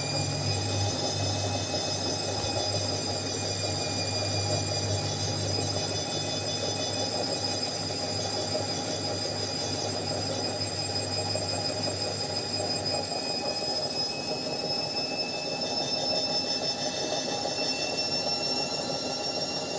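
Indesit 71252 washing machine running, its motor giving a steady high-pitched whine of several tones that slowly rises in pitch over a constant churning noise. A low hum drops out about 13 seconds in.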